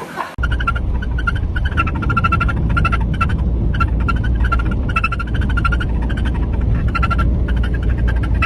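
A car's running noise, a steady low rumble, with a repeated short high-pitched chirping squeak about two to three times a second at uneven spacing. This is the customer's 'weird noise'.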